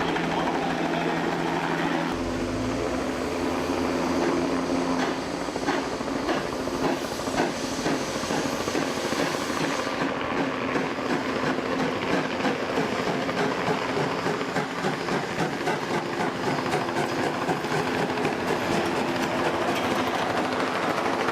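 Train running, with a low engine hum that rises in pitch about two seconds in, then rapid clickety-clack of wheels over rail joints for the rest of the time.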